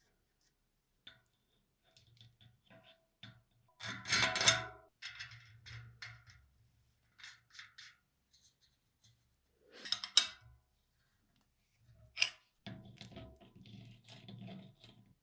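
Irregular workshop handling noises: small clicks and knocks from parts and tools, with a louder clattering burst about four seconds in and sharp knocks near ten and twelve seconds.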